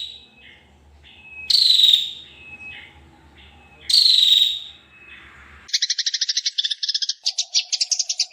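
Songbird calls from a masteran training recording: a loud harsh call falling in pitch, heard twice about two and a half seconds apart, with faint short whistles between. About two-thirds of the way through it switches abruptly to a fast buzzing trill.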